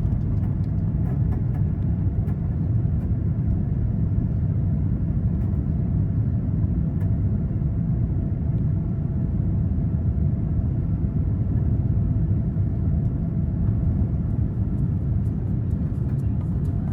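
Steady low rumble inside the cabin of a Boeing 787-9 airliner, from its two General Electric GEnx engines and the airframe.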